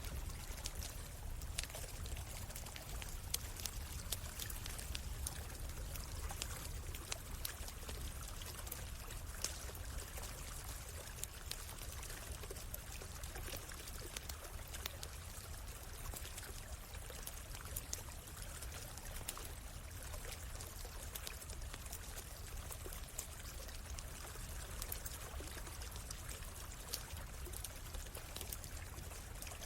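A stream running steadily, with frequent small pops and crackles from a wood campfire scattered over it.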